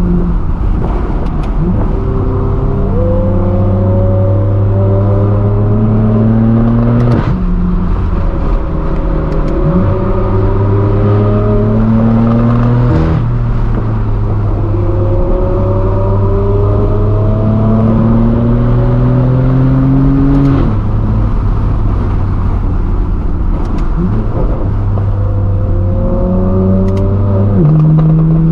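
Straight-piped BMW M4 F82's twin-turbo inline-six with a non-resonated exhaust, accelerating up through the gears. The exhaust note climbs steadily in pitch for several seconds in each gear, then drops sharply at each of four upshifts.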